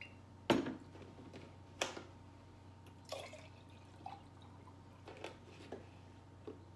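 Close-up eating sounds: about half a dozen short wet clicks and smacks at irregular intervals from chewing taco mouthfuls.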